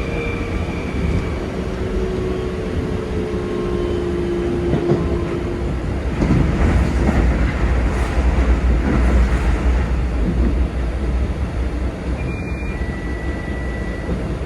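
Keikyu 2100-series electric train running, heard from the driver's cab: a steady low rumble of wheels on rail with a thin whine that falls slightly in pitch over the first five seconds, then a louder rattling stretch in the middle.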